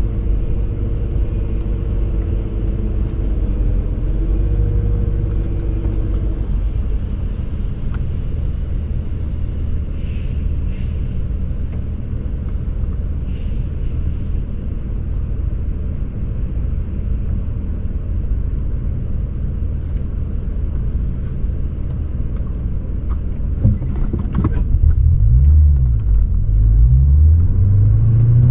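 2003 BMW 540i's 4.4-litre V8 running with a steady low exhaust rumble while driving. Near the end the engine note rises and falls several times as it accelerates and gets louder.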